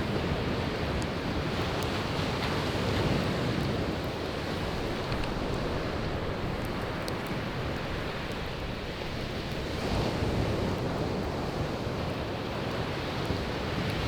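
Sea waves washing onto the shore in a steady rush that swells about three seconds in and again about ten seconds in, with faint scattered crackles of burning firewood.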